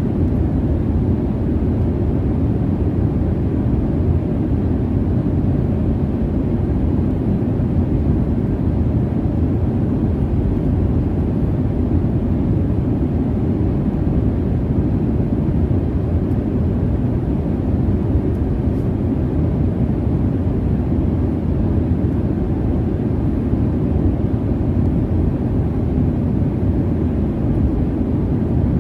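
Jet airliner cabin noise in cruise: a steady, deep rush of engine and airflow noise with no change.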